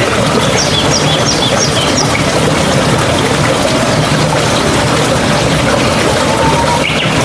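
Steady running water, as of a trickling mountain stream. A bird gives a quick series of about five high chirps about a second in.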